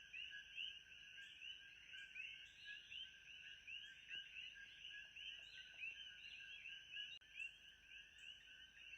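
Faint, dense chorus of many overlapping short rising chirps from calling animals, running steadily, with a thin steady high hiss above it.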